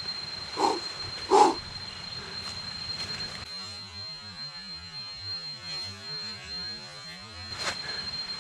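A steady, high-pitched insect tone, with two short louder sounds about a second in.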